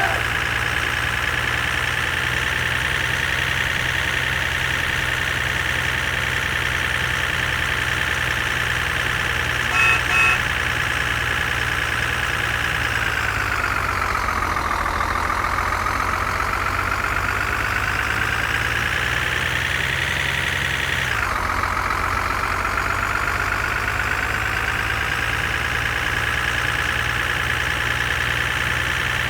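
Steady whining engine sound of a toy construction vehicle, its pitch sagging about halfway through, climbing back, then dropping suddenly. Two short horn beeps about a third of the way in.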